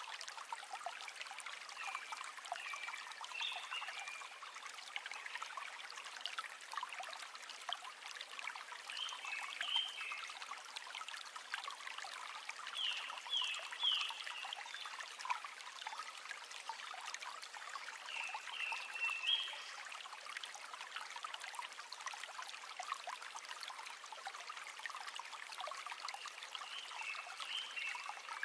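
River water running in a steady trickling, babbling flow. Short clusters of high chirping notes recur every few seconds over it.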